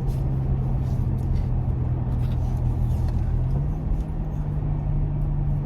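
Pickup truck driving, its engine and road noise heard from inside the cab: a steady low rumble and hum that steps up slightly in pitch about three and a half seconds in.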